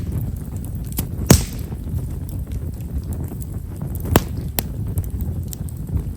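Himeshara (Stewartia monadelpha) firewood burning in an open fire and popping with sharp crackles. A loud pop comes about a second in with a brief hiss after it, and another pair of pops near four seconds, with smaller crackles over a low, steady rumble.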